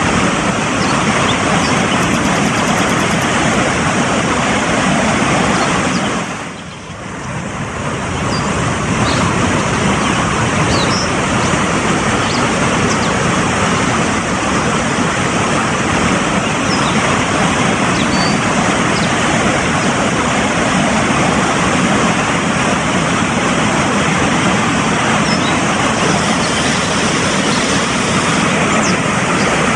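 Fast-flowing mountain stream water rushing steadily, with a few faint high chirps over it. The rush dips briefly about six seconds in and swells back.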